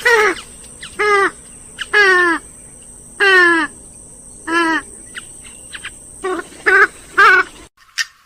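Grey-headed swamphen giving a series of loud, nasal calls, each under half a second and falling slightly in pitch, about one a second. The calls stop abruptly shortly before the end.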